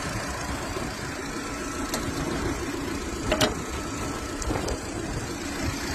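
2005 Seat Ibiza engine idling steadily, running again now that the broken wire feeding its engine control relay has been repaired. A single sharp click about halfway through.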